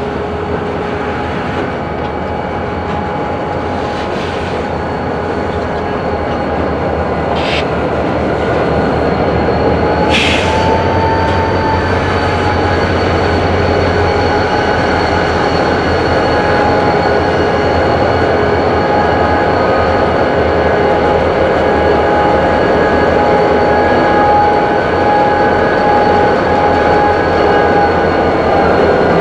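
Freight cars rolling slowly through the yard with steady, high-pitched steel wheel squeal of several held tones over a low rumble, growing gradually louder. Two brief sharp knocks come about seven and ten seconds in.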